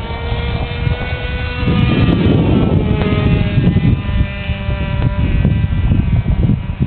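A .46-size RC trainer airplane's model engine buzzing steadily in flight, its pitch shifting slightly, with heavy wind rumble on the microphone that gets louder about two seconds in.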